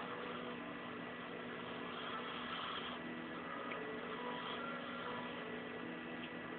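Steady low electrical hum with a faint hiss: room tone.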